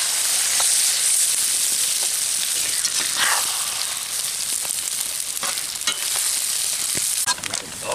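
Beaten eggs sizzling as they fry in a cast-iron skillet with potatoes and onions, a steady high hiss. A metal slotted spatula stirs and scrapes the pan, giving a few short clicks.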